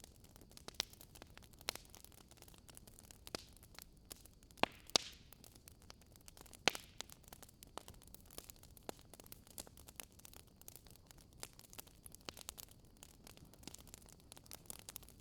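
Campfire crackling: burning wood giving irregular sharp pops and snaps over a faint steady hiss, with louder pops about five and seven seconds in.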